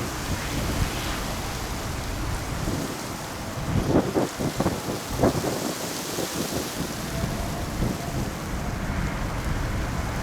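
Strong gusty wind buffeting the microphone, a rumbling rush that surges harder about four to five seconds in.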